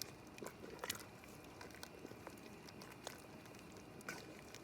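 Pot of Jamaican chicken feet soup simmering: faint, scattered pops and ticks over a low steady hiss.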